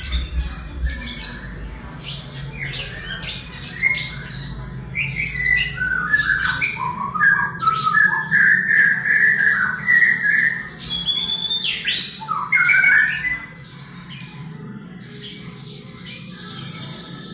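Young white-rumped shama (murai batu), eleven months old, singing a fast, varied lyrebird-style mimicry song of sharp clicks, chirps and whistled glides, ending on a held high whistle. A steady low hum runs underneath.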